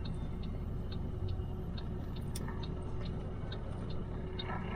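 A turn signal ticking steadily, about three clicks a second, over the low rumble of a truck's engine and road noise inside the cab.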